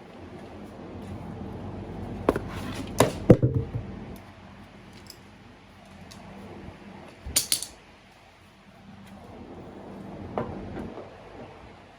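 Metal tools and parts clanking and clattering as they are handled and set down: a cluster of sharp clanks a couple of seconds in, a double clank near the middle and a lighter knock near the end, with low shuffling between them.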